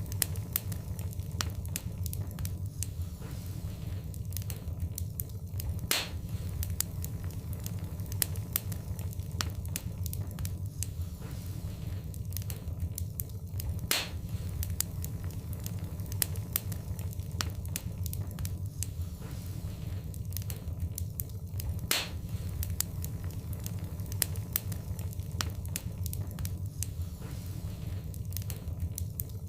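Wood fire in a fireplace crackling, with frequent small pops and a few louder snaps, over a steady low rumble.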